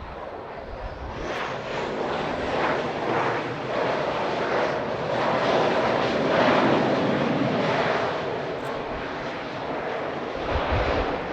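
Jet airliner's engines roaring as it passes, the noise swelling to a peak a little past halfway and then fading away.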